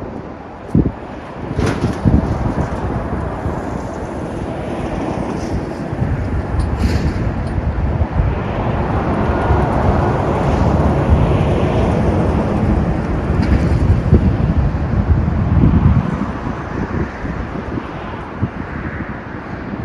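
Road traffic on a highway, one vehicle swelling louder as it passes through the middle, with wind buffeting the microphone throughout. There is a sharp knock about a second in.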